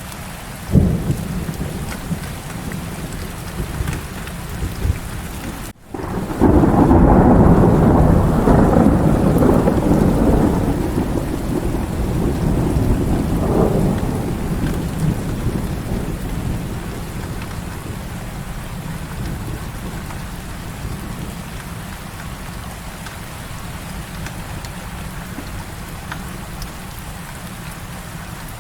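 Heavy rain falling steadily, with a loud rolling thunder rumble that starts suddenly about six seconds in and dies away slowly over the next ten seconds.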